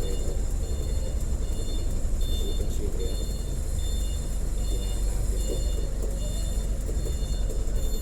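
A truck's diesel engine running with a steady low rumble, while a high-pitched reversing alarm beeps over and over, about once a second.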